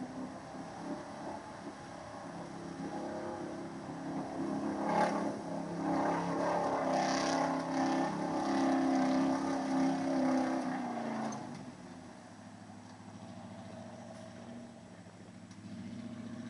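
Old 4x4 truck's engine revving under load, growing louder over several seconds, with a clunk about five seconds in, then easing back to a lower, steady run near the end.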